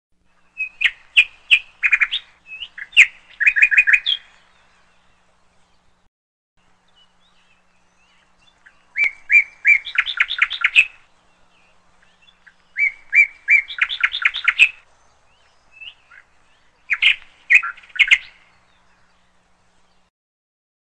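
A bird singing in four bouts of rapid repeated chirping notes, each a few seconds long, with pauses of a few seconds between them.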